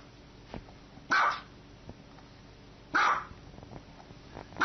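A small dog barking in single barks spaced about two seconds apart: two full barks, with a third starting right at the end.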